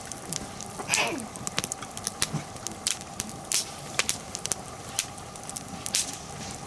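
Wood fire of hinoki and oak logs crackling, with irregular sharp pops over a steady hiss.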